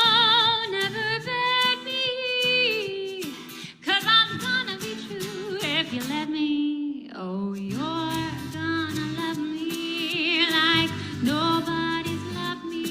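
A woman singing a slow ballad with wide vibrato on long held notes, over an instrumental accompaniment. About seven seconds in she briefly breaks off with a falling slide before the next phrase.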